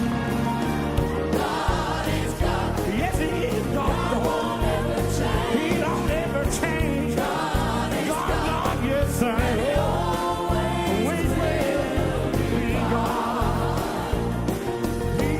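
Live gospel worship music: a band playing with a group of voices singing together, choir-like, with wavering held notes.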